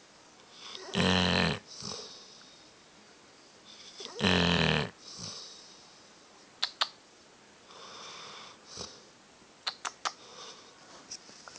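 Sleeping dog snoring loudly: two loud, buzzing snores about three seconds apart, each followed by a softer breath out. Then quieter breathing, with a few sharp clicks in the second half.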